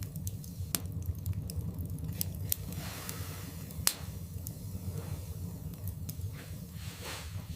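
Wood fire burning in a fireplace: a steady low rumble of flames with irregular sharp crackles and pops from the logs, one louder pop a little under four seconds in.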